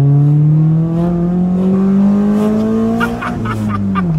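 Honda B16A VTEC four-cylinder engine in a Civic, heard from inside the cabin under hard acceleration: the revs climb steadily for about three seconds through the VTEC crossover, then fall away near the end as the throttle is lifted.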